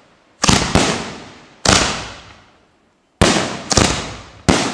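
Fireworks going off in about six loud, sharp bangs, some in quick pairs. Each bang dies away over about a second.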